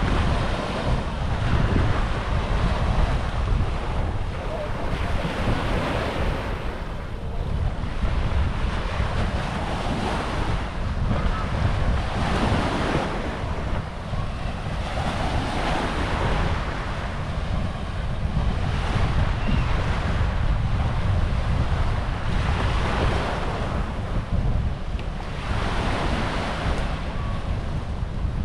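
Small waves washing onto a sandy beach, swelling and fading every few seconds, with wind buffeting the microphone as a steady low rumble underneath.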